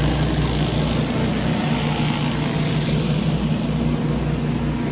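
Pressure washer engine running steadily, with the hiss of high-pressure water from a surface cleaner spraying onto concrete.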